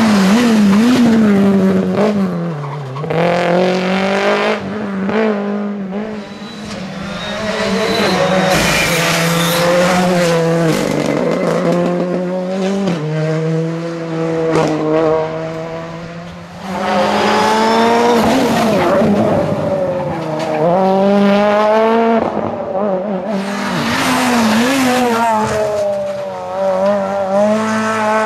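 Rally cars driven flat out on a stage, engines revving hard and dropping through gear changes as one car after another goes by, with tyres squealing.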